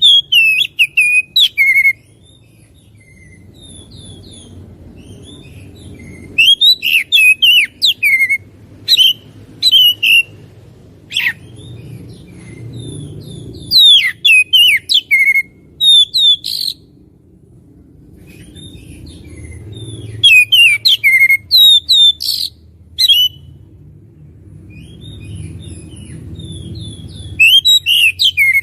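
Oriental magpie-robin singing in loud bouts of rapid, varied whistled phrases, each bout lasting a few seconds with short pauses between. A low, steady rumble runs underneath.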